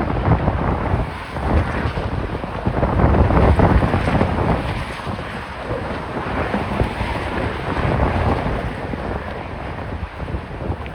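Gusty wind buffeting a phone's microphone, a heavy low rumble that swells and eases.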